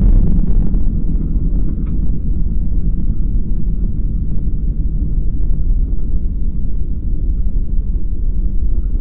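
Car engine running at speed with a heavy low rumble, mixed with wind buffeting the microphone.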